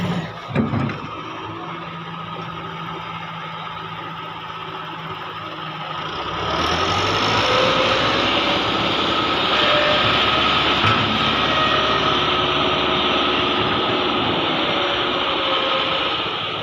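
Heavy excavator's diesel engine running steadily, then about six seconds in rising to a louder, fuller sound with a steady whine as it works under load, easing back near the end.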